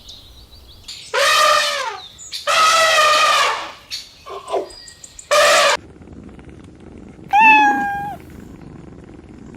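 Kittens meowing: four loud meows spread over several seconds, the second the longest, with a short fainter mew between them.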